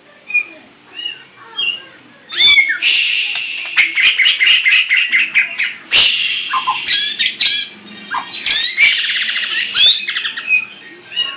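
A pet songbird singing: short chirps at first, then from about two seconds in loud, almost continuous song of fast repeated trilled notes, broken by a few sharp clicks.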